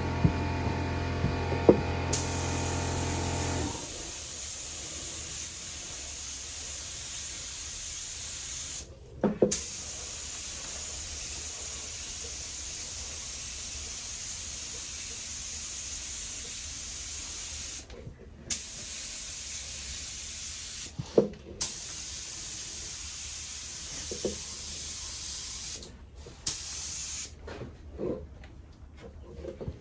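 Air paint spray gun hissing steadily as paint is sprayed, stopping for a moment four times when the trigger is let go, with small knocks at the pauses. A low steady hum at the start stops about four seconds in.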